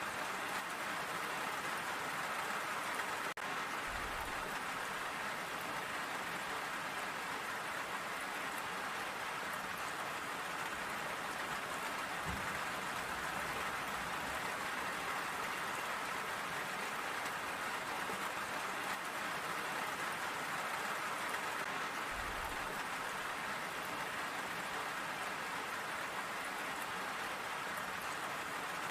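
Steady rain falling and pattering on surfaces, an even hiss with no letup, with a few faint low thuds.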